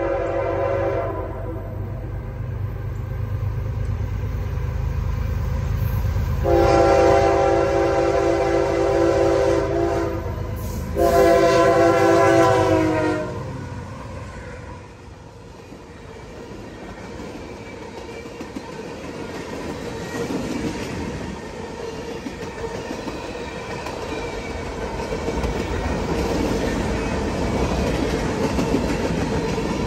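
CSX freight train passing: the lead diesel locomotive's multi-chime air horn blows, with one blast ending about a second in, then a long blast and a shorter one between about six and thirteen seconds, over the locomotives' engine rumble. After that the freight cars roll by with steady wheel noise and clickety-clack on the rails.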